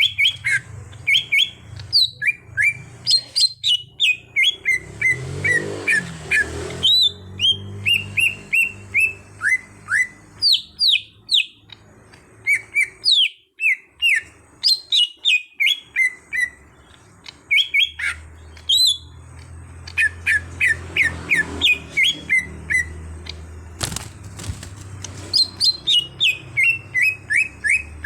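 Cucak hijau (greater green leafbird) singing: rapid runs of short, falling whistled chirps, in bursts with brief pauses, over a low steady hum.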